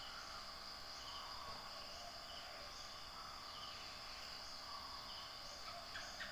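Faint, steady high-pitched insect trilling, a cricket-like chorus.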